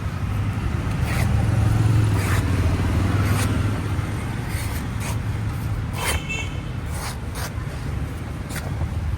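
A motor vehicle engine running steadily, a little louder one to three seconds in, with scattered clicks and scrapes over it.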